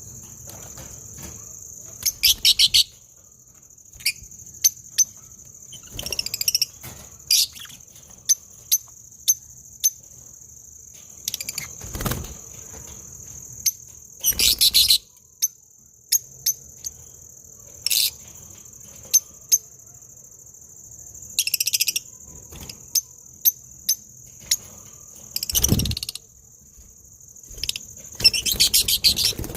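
Small birds chirping in short bursts and clusters over a steady high-pitched insect trill, with scattered sharp clicks and two dull knocks, about twelve seconds in and near the end.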